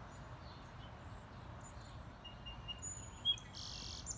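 Songbirds chirping: scattered short, high calls, with one sharp, loud chirp about three seconds in followed by a brief buzzy call, over a steady low outdoor rumble.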